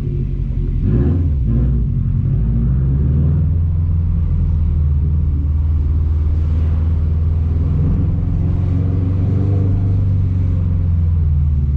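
2021 Subaru WRX STI's turbocharged flat-four running through an RK Titanium catback exhaust at light load in casual driving, heard from inside the cabin with the windows down: a steady, deep exhaust rumble.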